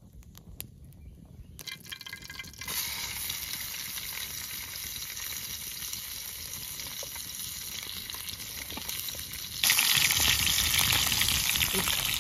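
Food sizzling in hot oil in a pan: a steady frying hiss starts a few seconds in and turns suddenly much louder near the end.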